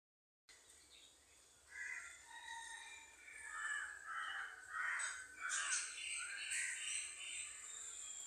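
Crows cawing, a run of harsh calls starting about two seconds in and repeating to the end.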